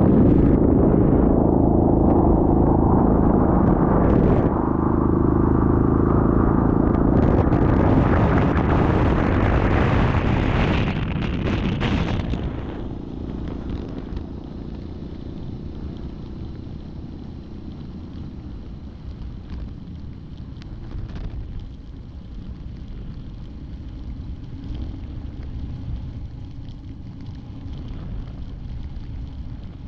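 Yamaha Grizzly 700 ATV's single-cylinder four-stroke engine running while riding. It is loud for about the first twelve seconds, then eases off to a lower, steady rumble.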